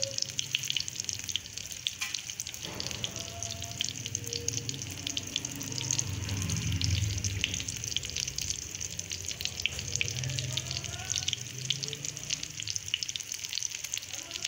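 Chicken and potato cutlets frying in hot oil: a steady sizzle with dense crackling.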